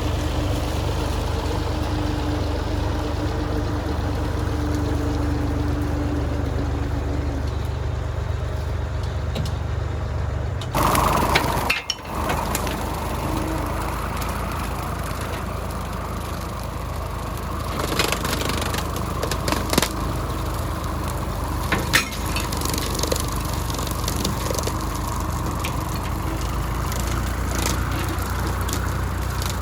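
Small tractor's engine running steadily, driving a wide brush cutter. About 11 seconds in the sound changes abruptly, and several sharp knocks follow later on.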